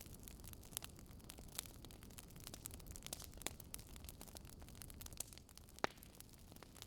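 Wood fire crackling in a fireplace: irregular sharp pops and snaps over a low steady rumble, with the loudest pop near the end.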